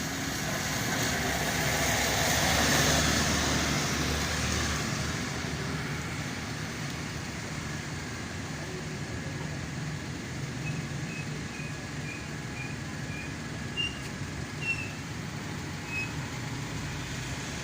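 Street traffic noise: a steady roadway hum, with a vehicle passing that swells to its loudest about three seconds in and then fades. A series of faint short high chirps comes near the end.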